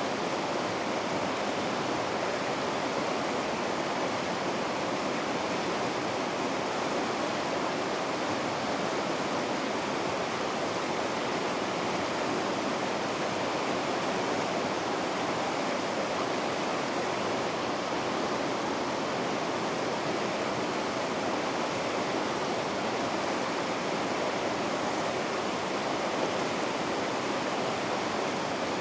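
Water rushing steadily through river rapids, an even unbroken rush with no separate splashes.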